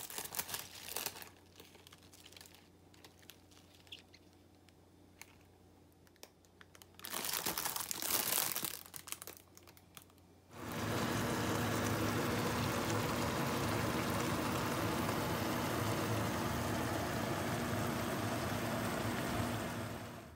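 Crinkling and rustling in bursts, with scattered clicks, at the start and again about seven seconds in. Then a steady hiss sets in at about ten seconds, lasts some ten seconds and fades out near the end.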